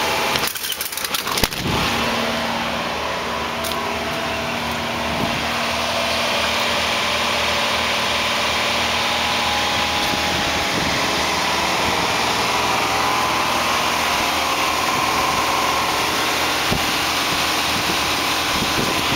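1985 Chevrolet S-10 pickup's engine running at a steady idle after a cold start, with a few sharp knocks about a second and a half in.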